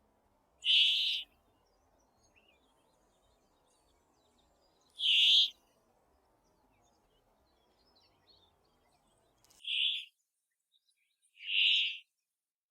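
Brambling calling: four single short calls of about half a second each, spaced a few seconds apart, the last two closer together.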